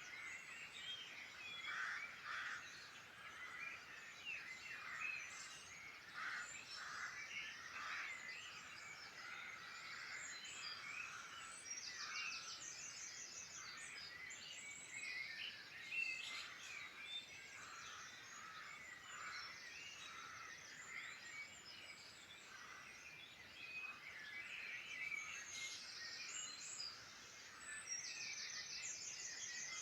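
Several wild birds singing at once: a busy mix of overlapping chirps, whistles and warbles, with a fast, high, rattling trill that comes back several times.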